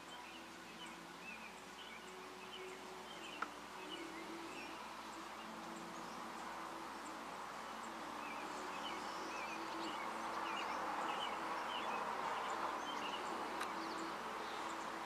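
Small birds chirping in short, quick calls over and over, over a faint outdoor background with a broken low hum. One sharp click comes about three and a half seconds in, and the background grows louder in the second half.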